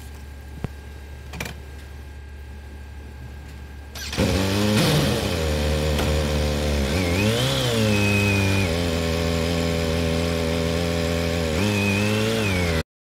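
A Kawasaki H2 SX's supercharged inline-four starts about four seconds in and idles. It is revved briefly about halfway through and again near the end, with a high whine rising and falling along with the revs.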